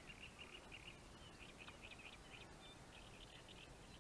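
Near silence with faint birdsong: a quick run of short, high chirps and twitters from a songbird.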